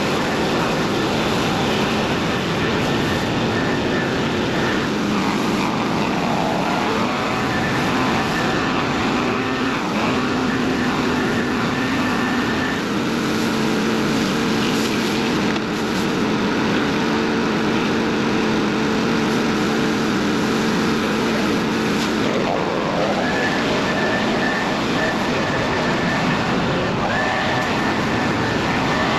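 Stihl RB 400 gas pressure washer running steadily, its engine note under the hiss of the high-pressure water jet.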